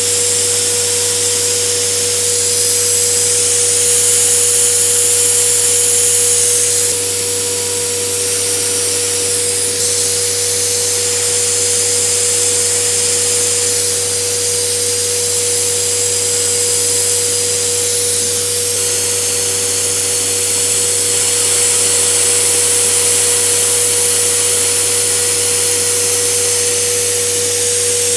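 CNC router spindle whining steadily at a high speed while an end mill cuts 3 mm acrylic sheet, with a hiss of cutting noise that rises and falls a few times.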